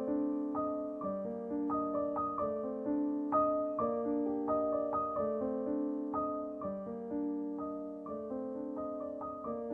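Background music: a gentle piano melody of repeated notes, several a second.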